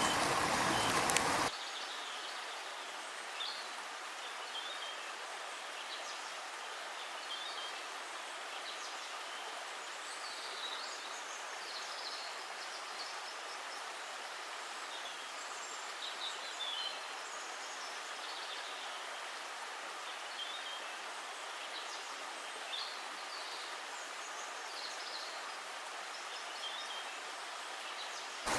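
Outdoor ambience: a steady soft hiss with scattered faint high bird chirps. A louder running-water sound cuts off about a second and a half in.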